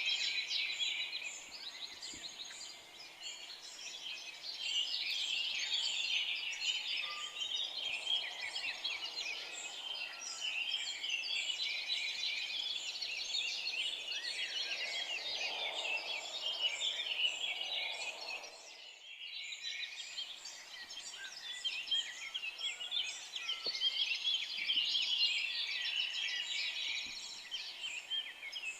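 A chorus of many forest songbirds singing and chirping at once, dense and overlapping throughout, with a brief drop in the sound about two-thirds of the way through.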